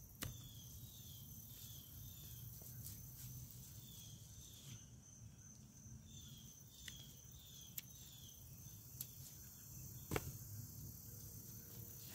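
Faint insects chirping in short high notes that come in small groups again and again, with a handful of sharp clicks scattered through.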